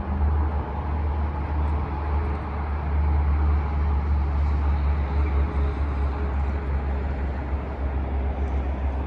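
Steady outdoor rumble with an even hiss over it, strongest in the deep lows and holding at the same level throughout.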